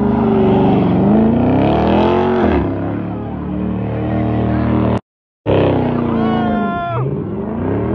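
Dodge Charger engine revving up and down as the car spins donuts with its rear tyres spinning on the pavement. The sound cuts out for half a second about five seconds in, then the engine revs sharply upward again.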